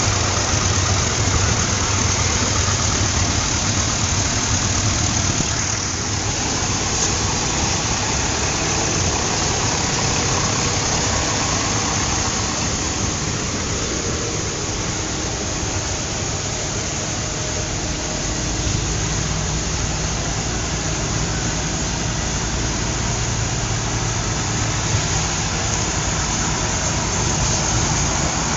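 Antique farm tractor engines running steadily at low revs; a deeper engine rumble comes up about two-thirds of the way through.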